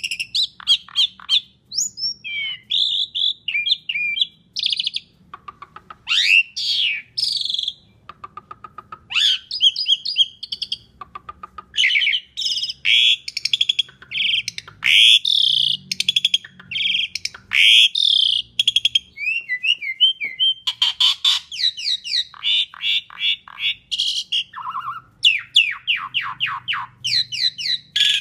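Pied starling (jalak suren) singing a long, varied song: rapid rattling series of clicks alternating with loud whistled notes and rising glides, with only brief pauses.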